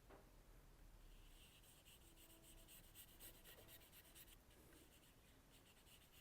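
Faint scratching of a marker pen drawn over the steel of a knife blade in many short strokes, colouring in and outlining the new tip shape.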